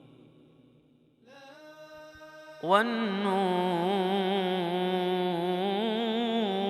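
Arabic religious ibtihal chant. After a brief hush a faint steady note comes in, then about two and a half seconds in a solo male voice enters with a sliding attack and holds a long, wavering melismatic note.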